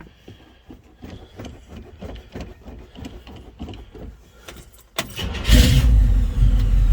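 Cold start of a classic car engine after a week unused: the starter cranks with an even rhythm for about four seconds, then the engine catches and settles into a loud, steady rumble.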